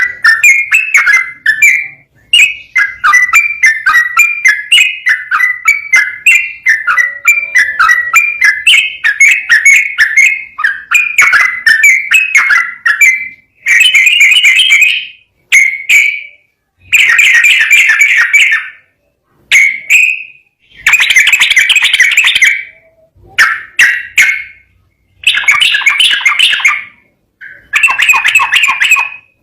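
Yellow-vented bulbul (trucukan) singing loudly: a fast, unbroken run of bubbling notes for about the first half, then a series of separate phrases of about a second each, broken by short pauses.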